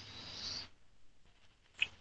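Faint bird chirping: a high call for about the first half second and a brief sharp chirp near the end.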